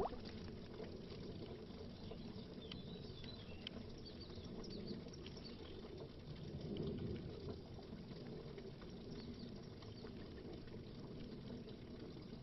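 Faint underwater bubbling: a low, steady gurgle with scattered small bubble pops, swelling slightly about seven seconds in.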